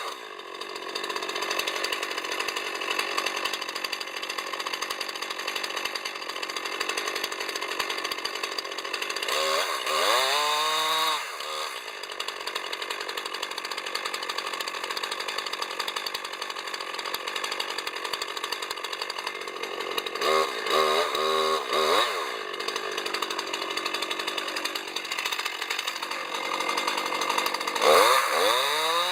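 Chainsaw cutting through wood, the engine running steadily under load and revving up briefly three times, about ten seconds apart.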